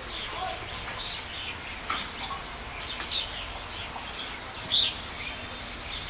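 A flock of small birds calling and chirping over one another in short, rapid calls, with one louder call near the end.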